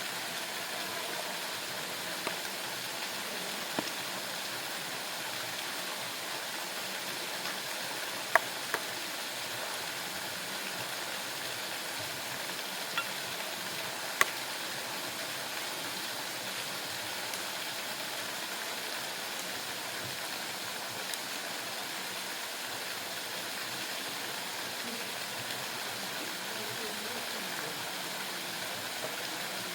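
Waterfall rushing as a steady, even hiss, with a few sharp clicks about eight and fourteen seconds in.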